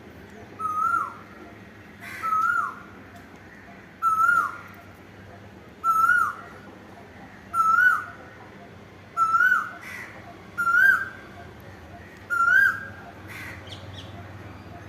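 Asian koel calling: eight loud, clear two-part whistled notes, each held and then dropping sharply, repeated about every second and a half to two seconds, the pitch edging slightly higher through the series.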